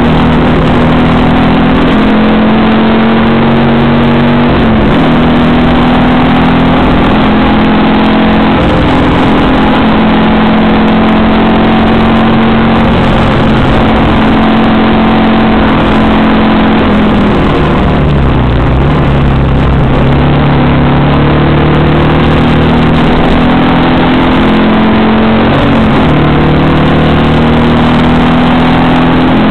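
Alfa Romeo Arna's flat-four boxer engine, heard loud from inside the cabin while lapping a race circuit. The engine pitch climbs and drops back at several upshifts, falls away steeply about two-thirds of the way through as the car slows for a corner, then climbs through the gears again.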